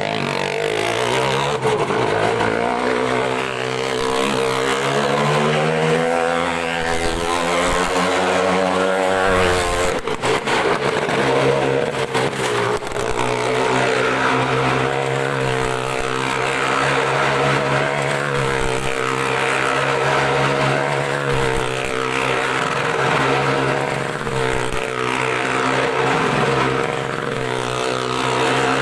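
A motor vehicle engine running under load. Its pitch climbs slowly for several seconds, drops sharply about ten seconds in, then holds fairly steady with small rises and dips.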